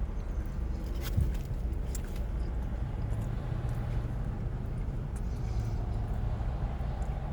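Steady low rumble of a car engine running, with a few light clicks about a second and two seconds in.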